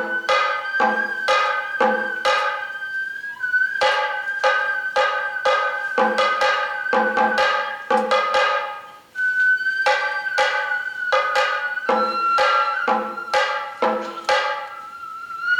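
Sato kagura hayashi: a Japanese bamboo flute holds long high notes over quick strokes on tuned taiko drums. Both break off briefly about nine seconds in.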